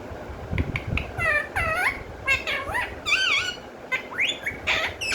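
Pet parrot calling: a quick run of short, high chirps and squawks that glide up and down in pitch, with a wavering, warbled call about three seconds in and a few soft clicks.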